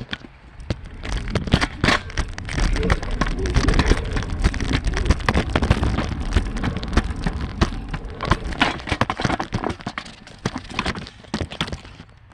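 Rapid, irregular clicking and ticking of a screwdriver knocking against the fan blades and grille of a Trane Odyssey outdoor unit as the blades are spun round by hand, over a low rumble.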